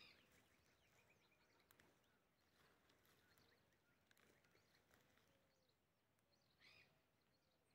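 Near silence outdoors, with faint bird chirps now and then, loudest right at the start and again near the end.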